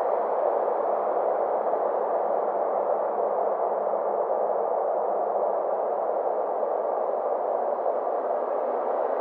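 Synthesized space ambience: a steady, hushed drone of filtered noise centred in the middle range, with faint slow sweeps rising and falling above it.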